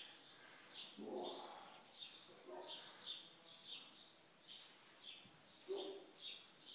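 Small birds chirping over and over, about two to three short high chirps a second, with a few faint lower sounds underneath.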